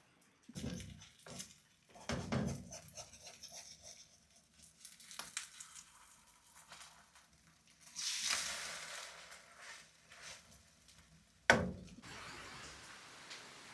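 Kitchen handling sounds, with dishes and utensils knocking and clattering and a brief hissing rush about eight seconds in. Near the end comes a single sharp loud bang, then a steady hiss of rain begins.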